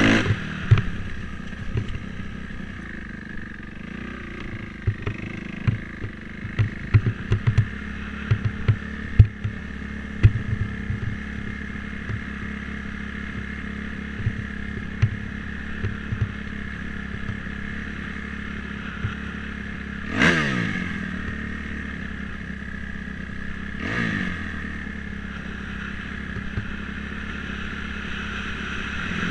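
Dirt bike engine running at a steady speed while being ridden, with a run of sharp knocks and clatter over the first third. Later it revs up and drops back twice, a few seconds apart.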